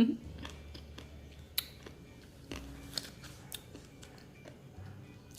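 Someone eating ice cream from a plastic cup: a few scattered light clicks and taps of a spoon over a low hum.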